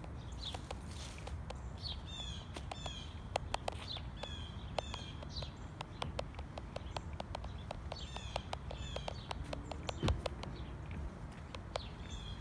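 Small songbirds chirping repeatedly, short notes that drop quickly in pitch, over a steady low outdoor rumble. Scattered sharp ticks run through it, with one louder thump about ten seconds in.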